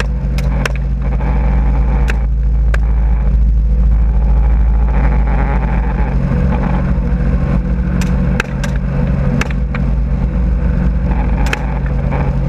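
Helicopter running steadily in flight, with a string of sharp rifle shots fired from it: a few in the first three seconds and a quicker cluster from about eight seconds in.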